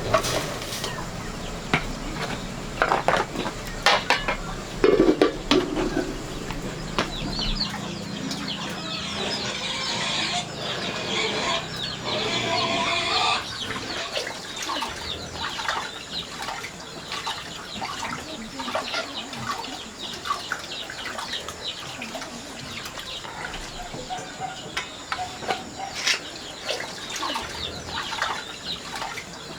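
Chickens clucking, with scattered knocks and taps throughout.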